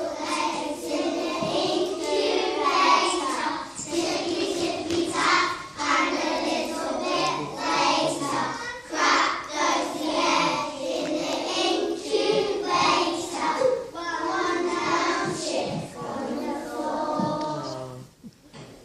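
A group of children singing a song together. The singing stops about a second before the end.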